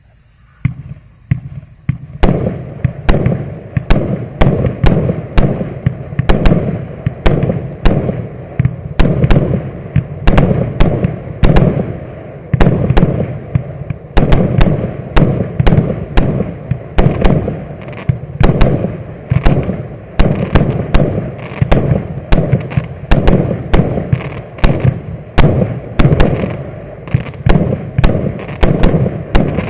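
Maxsem MC138 firework going off: a long run of sharp bangs and crackling bursts, two or three a second, starting about a second in, with a low rumble between them.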